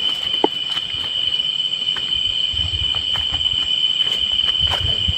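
Night insects, cricket-like, keep up a steady, unbroken high-pitched trill. Scattered short clicks and a few soft low knocks sound over it.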